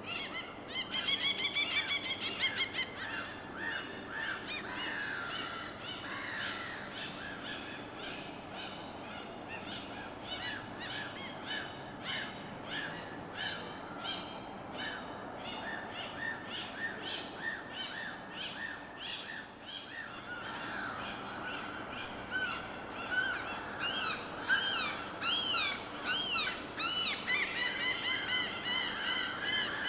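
Several birds calling over a soft, steady wash of water: a rapid run of harsh calls about a second in, quick repeated chirps throughout, and a string of loud arching calls near the end.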